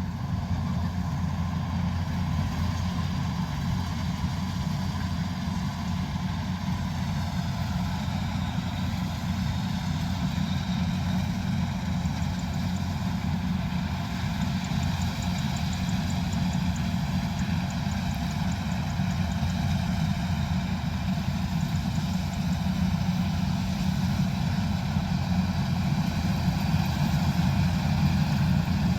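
Kubota combine harvester's diesel engine running steadily at working speed, a low continuous drone that grows slowly louder toward the end.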